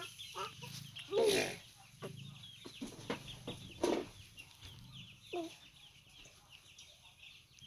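Coyote pup playfully growling in short bursts while chewing on a hand, with chickens clucking and chirping in the background.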